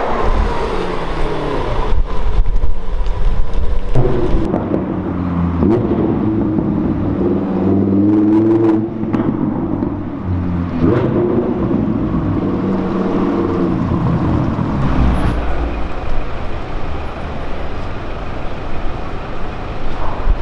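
A supercar's engine pulling away and accelerating hard. Its pitch climbs and drops back several times as it shifts up through the gears, then settles into a steady drone.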